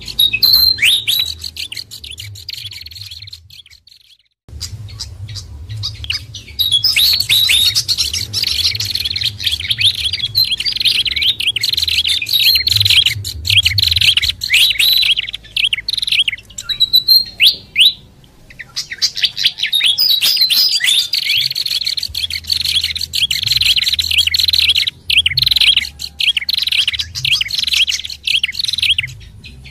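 Bird-lure recording of small songbirds calling: rapid, high chirps and twittering from several birds overlapping, with short breaks about four and eighteen seconds in.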